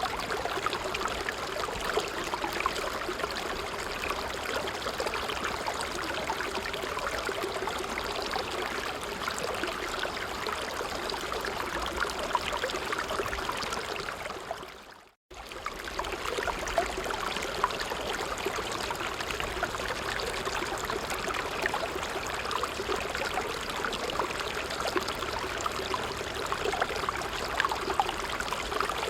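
A creek of running water, with a steady, even rush. About halfway through, it fades out over a second to a brief silence, then cuts straight back in.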